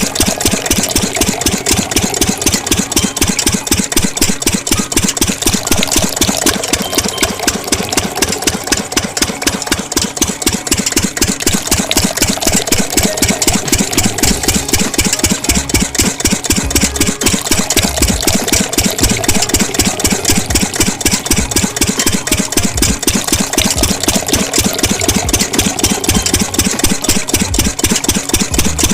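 Diesel-type engine idling steadily with a fast, even chug.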